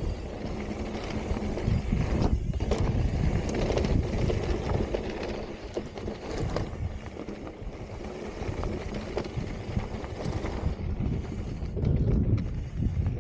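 An e-mountain bike rolling down rocky singletrack: tyres crunching over loose rock, a constant clatter of small knocks and rattles from the bike, and wind on the microphone. It eases off in the middle and picks up again near the end.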